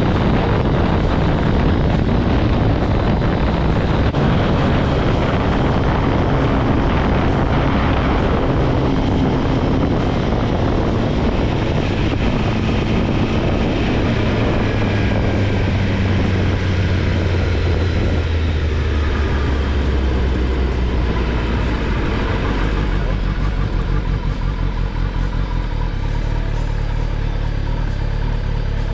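Kawasaki ZX-10R's inline-four engine running on the road, with wind rush over the microphone. Through the middle the engine note falls as the bike slows, then holds at a lower, steady pitch.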